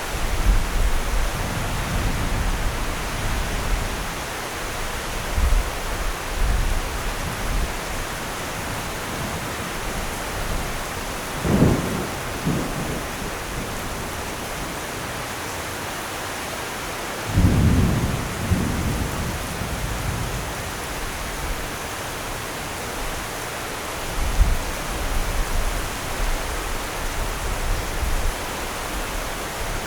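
Steady rain falling through a thunderstorm, with thunder rumbling low. Louder peals come about 12 and 18 seconds in, and more rumbling follows near the end.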